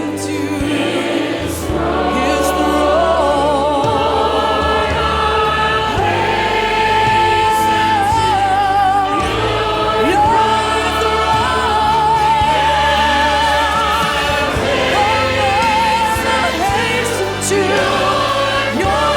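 Congregational worship singing with a choir, voices holding long notes with vibrato over a steady instrumental accompaniment.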